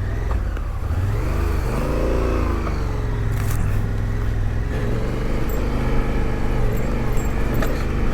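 Adventure motorcycle engine running under load off-road, the revs rising and falling about a second or two in, then holding steady.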